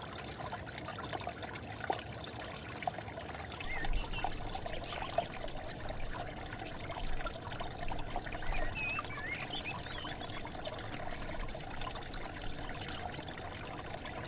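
River water flowing and trickling steadily, with short bird chirps now and then, a few about a third of the way in and more around two-thirds through.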